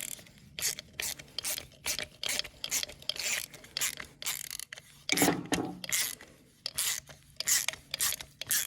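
Socket ratchet clicking in short back-and-forth strokes, about two a second, as the screws on a small lawnmower carburetor are tightened.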